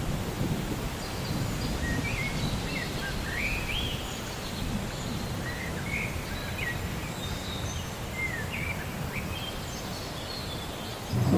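Steady rain with birds chirping, many short calls that rise and fall. Low thunder rumble fades at the start and breaks in again near the end.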